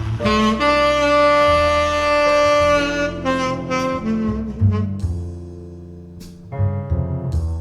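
Recorded jazz ballad played through ATC SCM 11 bookshelf loudspeakers and picked up in the room: a tenor saxophone plays a slow phrase over bass. The saxophone holds one long note from about one to three seconds in, then starts a new phrase near the end.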